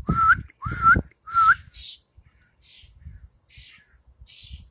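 A person whistling three short notes in quick succession, each sliding up at the end, in the first second and a half.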